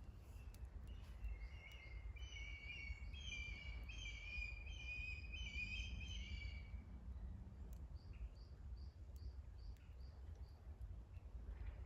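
A small songbird singing a fast warbling phrase of chirps for about six seconds, then a run of short, high single chirps, over a steady low outdoor rumble.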